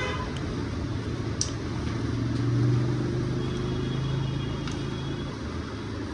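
A steady low motor hum that swells for a couple of seconds in the middle, with a few light clicks.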